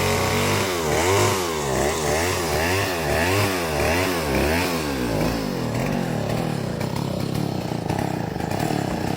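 Chainsaw cutting teak roots, its engine pitch rising and falling about twice a second, then running more evenly for the last few seconds.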